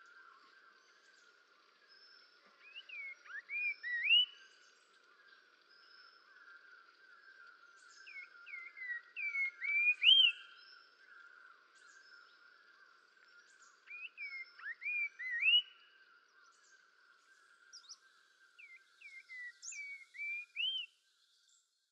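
A songbird singing phrases of clear, sweeping whistled notes, each phrase building to a loud high slurred note, repeated every five or six seconds over a faint steady background of distant bird and insect calls.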